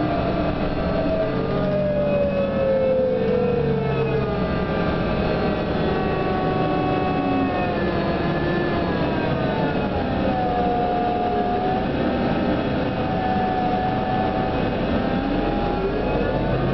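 Whine of a New Flyer DE42LFA diesel-electric hybrid bus, heard from inside while riding, over the low running of the engine. The tones fall in pitch over the first few seconds as the bus slows, rise about eight seconds in and hold, then dip and climb again near the end as it pulls away. This is the unusual sound this bus is known for.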